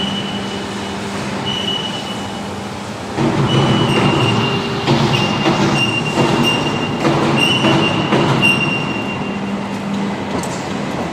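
Hydraulic profile bending machine running: a steady low hum, growing louder about three seconds in, with repeated high metallic squeals of metal against the rolls.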